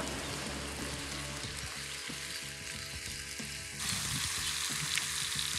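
Food frying in oil in a pan, sizzling; the sizzle becomes suddenly louder about four seconds in.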